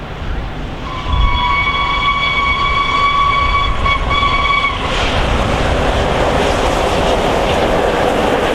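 Steam locomotive whistle sounding one long blast with a brief break near the end, as LNER A1 4-6-2 Tornado approaches. Then the rushing, rattling noise of the locomotive and its train passing at speed takes over.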